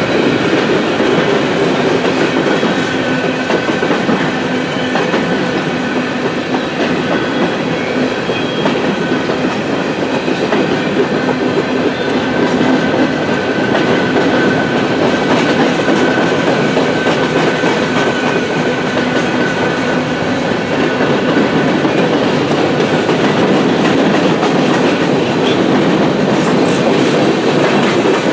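Freight cars of a long mixed train rolling past: a steady, loud rumble and clatter of steel wheels on the rails, with a faint steady whine over it.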